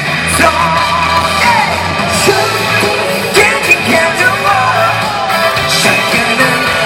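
Live pop-dance band music in a large arena, with a vocal line and shouts over a steady beat and bass.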